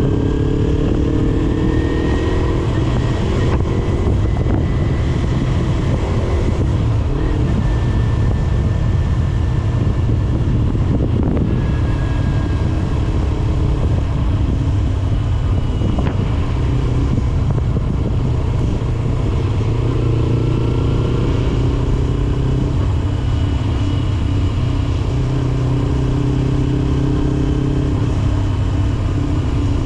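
2009 Kawasaki Ninja 250R's parallel-twin engine running through an HMF slip-on exhaust while under way, over steady wind rush. The engine note climbs as it accelerates near the start, again about two-thirds through, and once more near the end.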